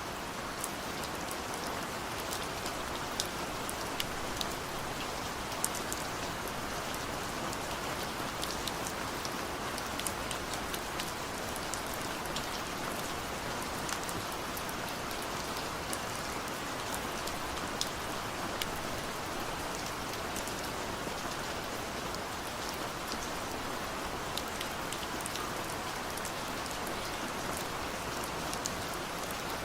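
Steady heavy rain falling in a forest, a dense even hiss with many sharp individual drop hits scattered through it.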